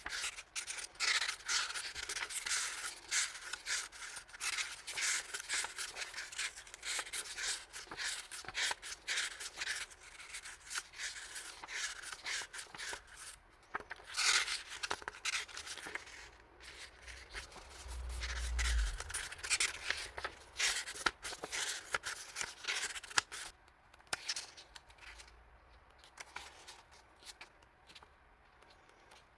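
Hands rustling and crinkling plastic packaging while unwrapping stationery items, in a dense run of crackles and scrapes. A dull bump comes about two-thirds of the way through, and the handling grows quieter near the end.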